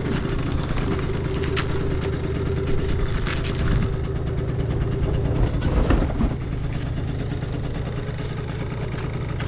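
Yamaha Vino 5AU scooter's carbureted 50cc two-stroke engine idling steadily, with a few light clicks over it, the loudest about six seconds in. The seller presents it as running with no abnormal noises.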